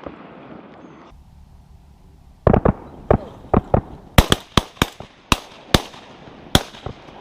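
A rapid volley of shotgun fire from several guns: about a dozen shots in roughly four seconds, starting about two and a half seconds in, as hunters shoot at incoming teal.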